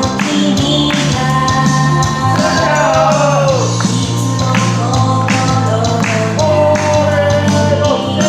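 Japanese idol pop song with a female lead vocal, sung over a band backing track with steady bass and drums; the vocal line slides down at the ends of phrases.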